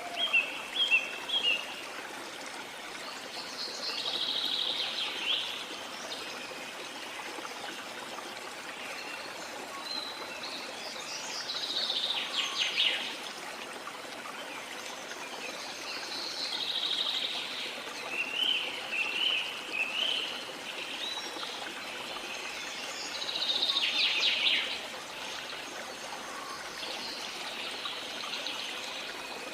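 Steady rush of flowing water from a waterfall, with rainforest birds singing over it: a longer trilling phrase comes back roughly every six seconds, with shorter chirping notes in between.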